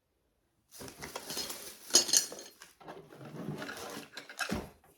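Metal flea-market items being handled and moved about: rattling and clinking, with a sharp click about two seconds in and a sharp knock near the end.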